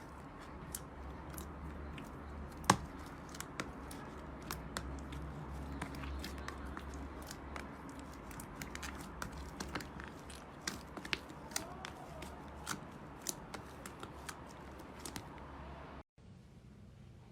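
Slime being worked, giving many small, irregular crackles and pops over a low steady hum, with one louder snap about three seconds in. The sound cuts off abruptly about a second before the end, and a quieter clip follows.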